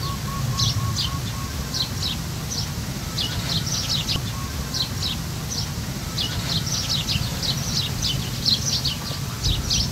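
Small birds chirping, short high notes coming in quick clusters, over a steady low rumble.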